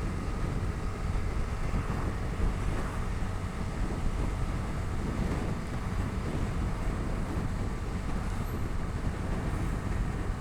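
Bajaj Dominar 250's single-cylinder engine running steadily under way, heard from the pillion seat, mixed with wind noise on the microphone.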